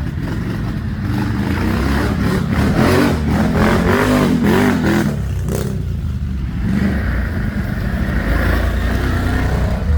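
ATV engine running and revving up and down, then settling into a steadier drone for the second half.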